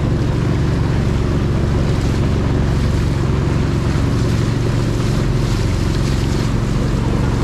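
Long-tail boat's engine running steadily under way, with water rushing past the hull and wind on the microphone.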